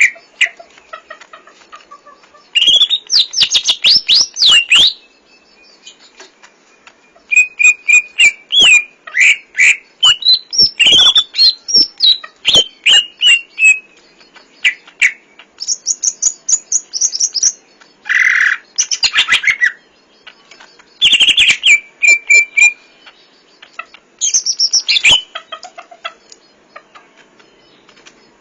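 Green leafbird (cucak ijo) singing a varied, full song packed with mimicked phrases: rapid whistled chirps, trills and sliding notes in loud bursts of one to several seconds with short pauses between.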